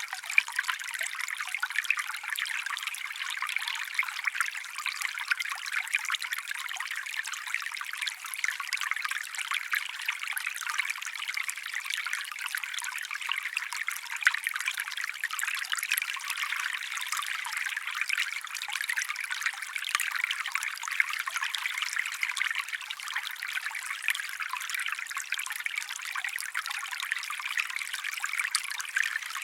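Small stream trickling steadily, a continuous fine splashing and bubbling of water.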